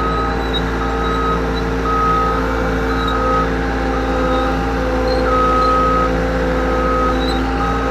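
Cat 248B skid steer's diesel engine running steadily, with its backup alarm giving repeated high beeps about once a second as the machine reverses.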